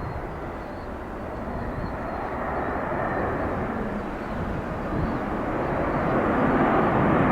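Jet engine noise of an Airbus A330-200 airliner, a steady rushing sound that grows steadily louder as the aircraft comes closer.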